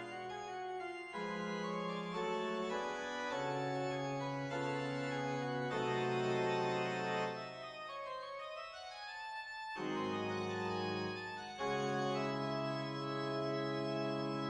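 Organ music: slow, held chords that change every second or two, softer for a moment past the middle.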